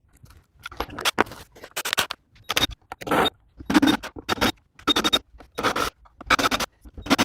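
Repeated scraping strokes, evenly paced at about one and a half a second, like a hand tool worked back and forth.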